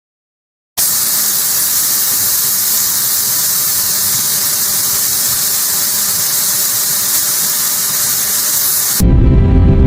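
A steady, even hiss that starts abruptly after a moment of dead silence and cuts off near the end as music begins.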